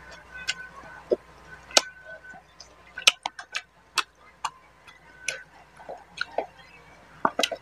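Close-miked eating sounds of rice and fish curry eaten by hand: wet chewing, lip smacks and mouth clicks at irregular intervals.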